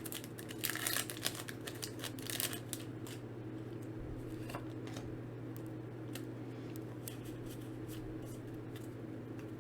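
Foil Pokémon booster pack crinkling as it is opened and the cards inside handled: dense crackles and clicks in the first few seconds, then only sparse soft ticks, over a steady low hum.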